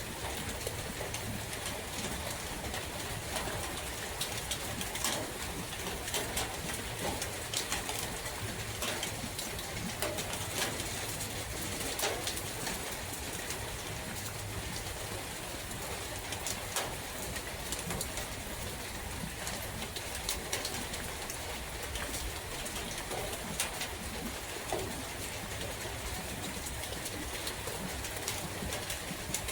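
Steady rain falling in a forest, with sharp ticks of single drops hitting close by and a bird calling.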